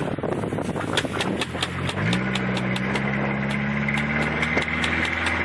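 Pickup truck engine revving up about two seconds in and holding steady under load while reversing, with a high steady whine above it. A run of sharp clicks and snaps runs through the whole stretch.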